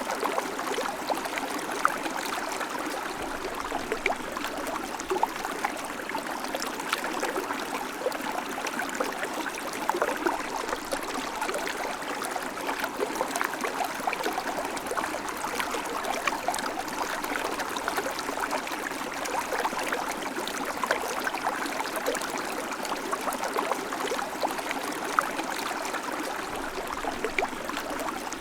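River water flowing and babbling over stones: a steady rush with many small splashes and gurgles.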